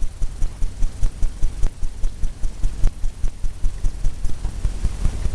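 Paintbrush tapping rapidly against a stretched canvas, a steady run of dull thumps about four or five a second.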